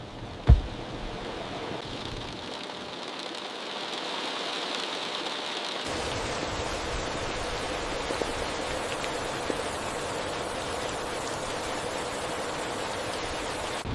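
Steady heavy rain, an even rushing hiss, with a single sharp thump about half a second in.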